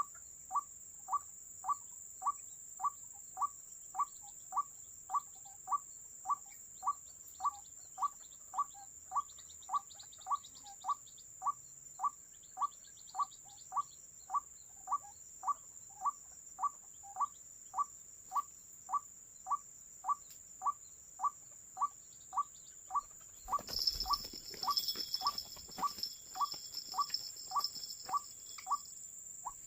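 White-breasted waterhen call note repeated at an even pace, a little under two notes a second, over a steady high insect whine. About three-quarters of the way through, a few seconds of louder rustling noise with a high buzz join in.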